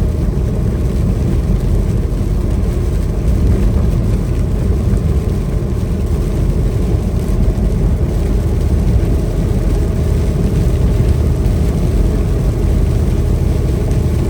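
Semi-truck running steadily at road speed: a constant low engine drone with road and tyre noise, heard from inside the cab.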